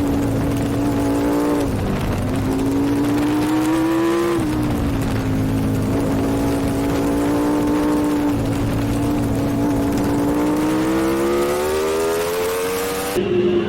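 Racing superbike engine heard from onboard at speed. Its note dips sharply twice in the first few seconds, runs steady for a while, then climbs gradually through the second half. The sound changes abruptly just before the end.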